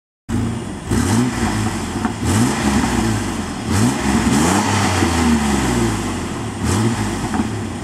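Stock 1998 Chevy Blazer's 4.3 Vortec V6 blipped from idle about five times, the revs rising and falling each time, with faint popping from the exhaust. The popping starts around 2,500 rpm and is unexplained on an unmodified engine.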